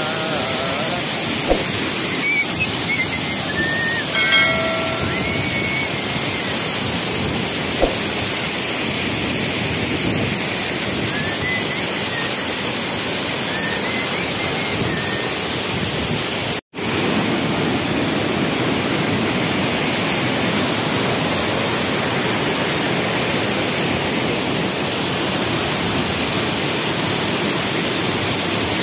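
Steady, even rush of a waterfall running full after rain, with a few faint high chirps in the first half. The sound cuts out for an instant about two-thirds of the way through.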